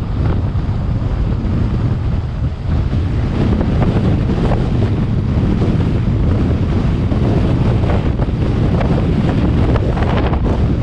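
Hurricane wind buffeting the microphone: a loud, continuous low rumble with gusts.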